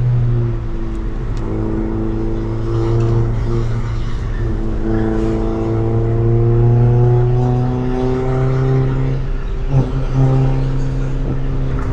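Honda EF Civic's four-cylinder engine through a Tanabe Revel Medalion Touring S exhaust, cruising under light throttle. Its deep drone rises slowly in pitch, then breaks briefly about ten seconds in before settling again.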